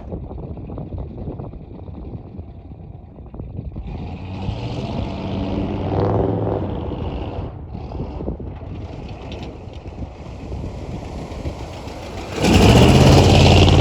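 1973 Chevy K20 pickup's engine running on the move, with road and wind noise. The engine note swells about halfway through and becomes much louder suddenly near the end.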